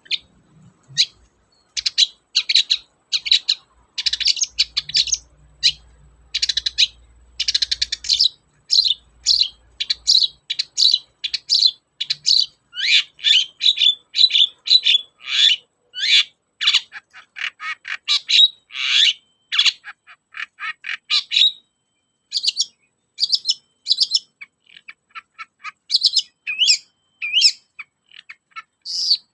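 Long-tailed shrike (cendet) singing in full voice: a fast, unbroken string of short, sharp chirps and harsh notes, several a second, with a brief pause a little past the middle.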